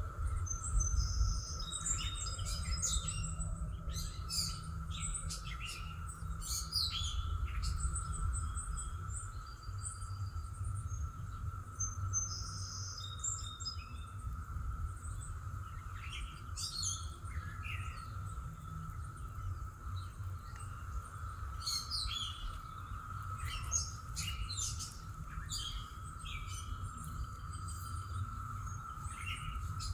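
Several songbirds chirping and singing in short phrases throughout, over a steady high hum held at one pitch and a low background rumble.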